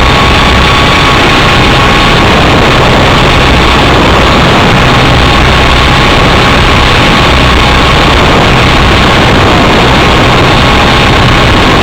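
Small radio-controlled helicopter running: a steady motor whine over loud rotor noise that stays unchanged, close to the microphone and near full scale.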